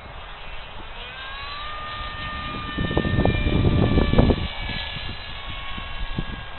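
Electric brushless motor and 6x5 propeller of an RC foam plane whining, the pitch climbing about a second in and then holding steady. Wind buffets the microphone with a low rumble, heaviest in the middle.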